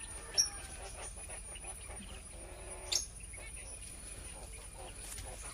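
Small cage birds in an aviary chirping: two short, sharp, high chirps, one about half a second in and one about three seconds in, over faint background.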